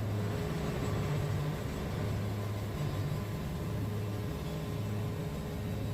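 Wood-Mizer sawmill running with a steady mechanical hum, a low drone under faint steady whine tones.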